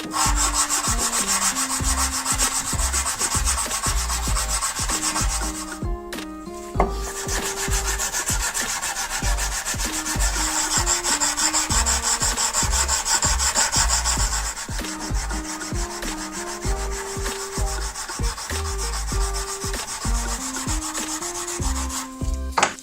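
Steady abrasive sanding, rubbing back and forth, with a short pause about six seconds in.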